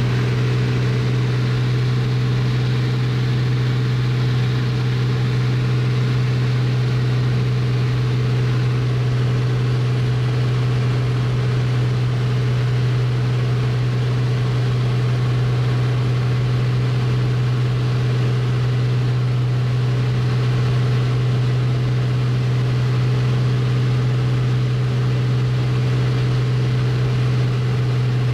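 Bellanca Super Viking's single piston engine and propeller droning steadily, heard from inside the cockpit, with a deep, unchanging hum.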